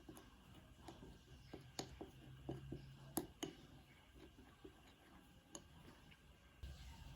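Faint, scattered light clicks and taps, about a dozen, loudest a little after three seconds in.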